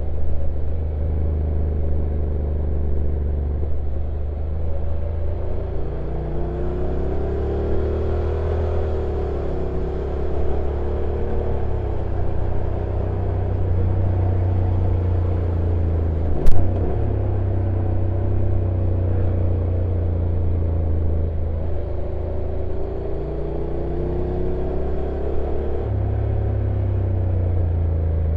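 Honda NC750X DCT motorcycle's parallel-twin engine running at low revs on a downhill ride, its pitch rising and falling twice as the revs change. A single sharp knock past the middle is the loudest moment.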